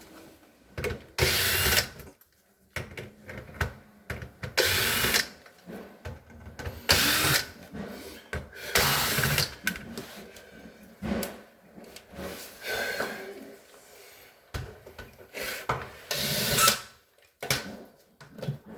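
Power drill-driver running in short bursts, about six of them, each lasting around a second, with light handling clatter in between.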